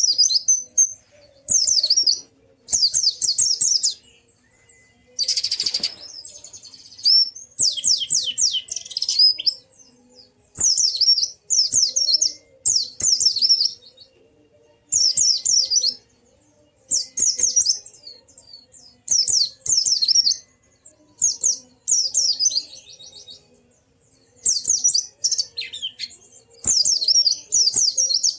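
Pleci (white-eye) singing in phrases of rapid, high, twittering notes, each about a second long with short pauses between. This is the fast 'ngalas' song used to get silent pleci to open their beaks and sing. About five seconds in there is a brief harsh, hissing burst.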